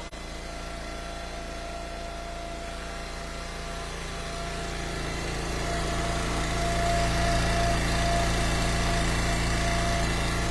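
Small gasoline engine of an Eastonmade Ultra log splitter running steadily at a constant speed, growing louder about halfway through. A brief knock comes right at the start.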